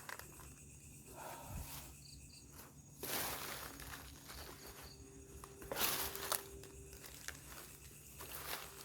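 Footsteps and rustling through undergrowth, with two louder brushing swishes about three and six seconds in, and insects chirring faintly behind.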